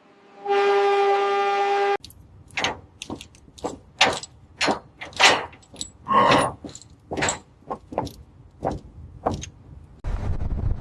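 A horn sounds one steady blast lasting about a second and a half. It is followed by a string of irregular clanks and knocks, roughly one or two a second, like metal parts striking. Near the end, a low rumble sets in.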